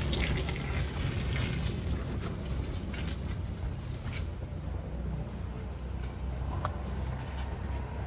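Insects trilling in a steady high-pitched chorus, over a low rumbling noise.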